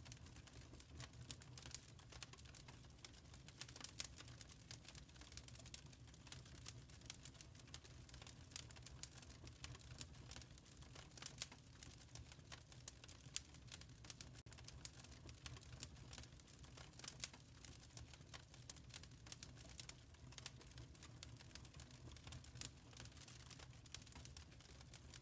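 Wood fire in a fireplace crackling faintly: irregular small pops and snaps over a low, steady rumble.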